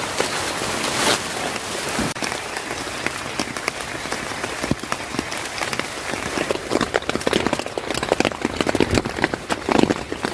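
Rain falling and pattering on a surface: a steady hiss of rain, with sharp individual drop hits that start about two seconds in and grow denser toward the end.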